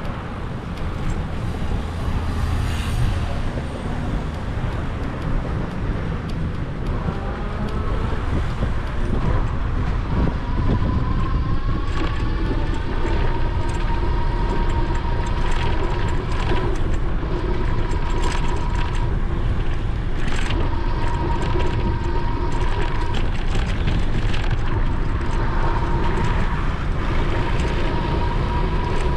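Riding noise from an e-bike, with heavy low rumble from wind and road and traffic around. About a third of the way in, a steady whine comes in and cuts out now and then, typical of the electric assist motor. There are occasional small rattles.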